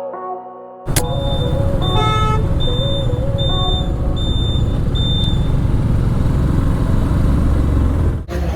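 Vehicle riding on a highway with a loud, steady road and wind rumble, and horns beeping repeatedly in short high toots, with one longer multi-tone horn blast about two seconds in.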